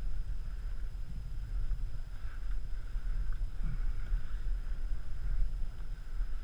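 Wind buffeting the microphone: a steady, low rumble.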